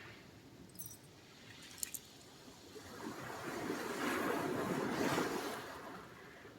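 Sea surf: a wave rushes in, building from about two and a half seconds in to its loudest a couple of seconds later, then draws back and fades near the end. Two faint, short high clicks come about one and two seconds in.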